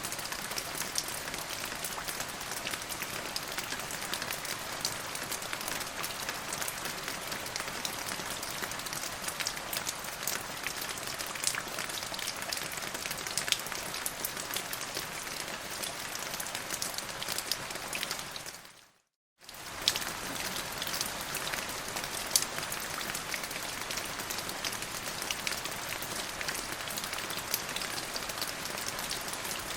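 Steady rain falling, a dense hiss with many distinct drop taps. About two-thirds of the way through it fades out to silence for under a second, then comes straight back.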